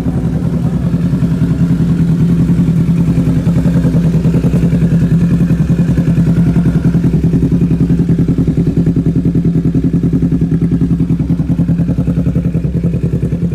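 Kawasaki Z650's parallel-twin engine idling steadily through a full aftermarket exhaust system, warming up after a cold start, with an even, fast pulse.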